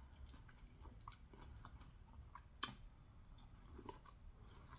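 Faint chewing of a mouthful of corn on the cob, with a few soft mouth clicks. Near the end comes another quiet bite into the cob.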